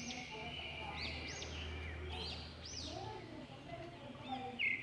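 Faint background birdsong: small birds giving repeated short, arching chirps, over a low steady hum.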